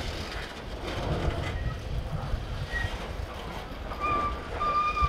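Covered hopper cars of a grain train rolling past, their wheels rumbling and knocking on the rails. Two short, thin wheel squeals come near the end.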